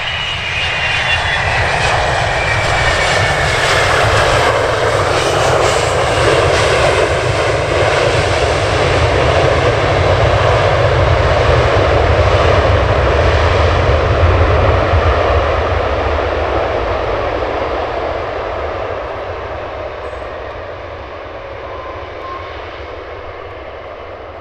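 Supermarine Spitfire's Rolls-Royce Merlin V12 engine at power as the fighter flies past. A high whistle falls in pitch over the first couple of seconds, the engine grows louder to a peak about halfway through, then fades away.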